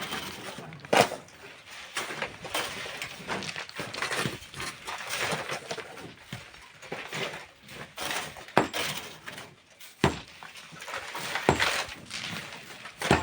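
Hand tools working stone and sand: repeated scraping and crunching with several sharp metal-on-rock knocks, the loudest about a second in.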